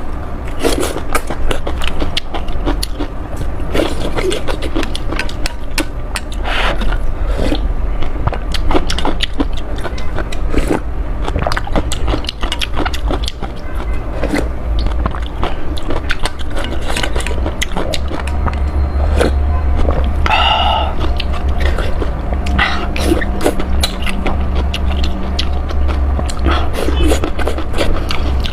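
Close-miked eating of spicy noodles: a steady run of quick wet clicks and smacks from chewing and slurping, over a constant low rumble. A brief pitched sound cuts in about two-thirds of the way through.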